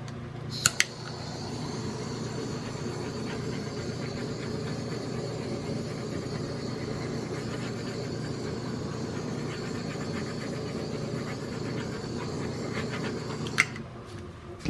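A hand-held heat tool blowing steadily over wet acrylic paint to pop surface air bubbles, switched on with sharp clicks just after the start and cut off with a click near the end.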